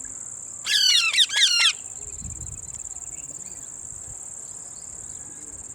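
A pet parakeet gives a loud, harsh burst of rapid screeching calls about a second in, lasting about a second. A steady high-pitched tone runs underneath.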